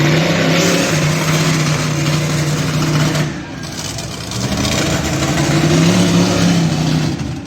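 Monster truck engine revving hard and loud, easing off briefly a little after three seconds in, then revving back up.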